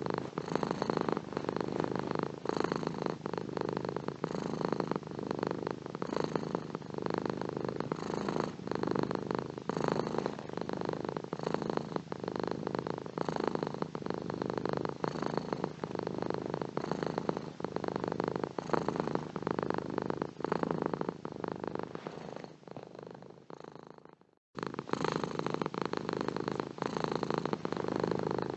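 Domestic cat purring steadily and closely. The purr fades about three-quarters of the way through, cuts out for a moment, then comes straight back at full strength.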